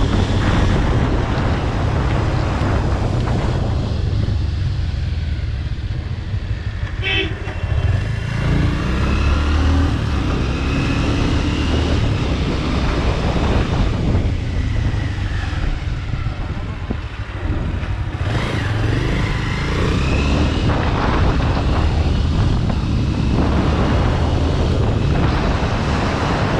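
Bajaj Pulsar RS200 with a modified exhaust running along the road, its engine mixed with wind rumble on the helmet or GoPro mic. A short vehicle horn toot sounds about seven seconds in.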